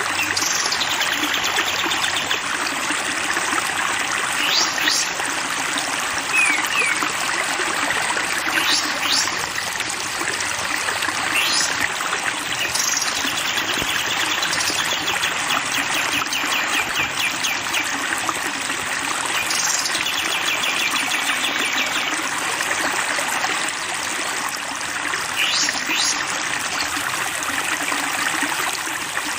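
Flowing stream water running steadily, with songbirds singing over it: short rising whistles scattered throughout, and fast trills of rapidly repeated notes midway and again about twenty seconds in.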